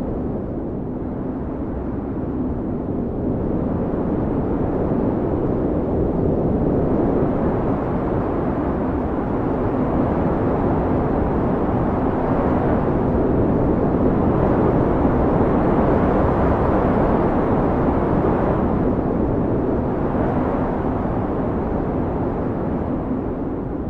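Blizzard wind blowing hard: a deep, steady rushing noise with a faint low howling tone, swelling into stronger gusts around the middle and easing off near the end.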